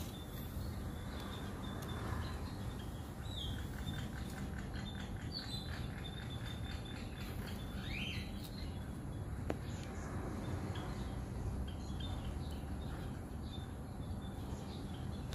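Birds chirping faintly over a steady low outdoor rumble, with a quick run of ticks and a short rising call near the middle, and one sharp click shortly after.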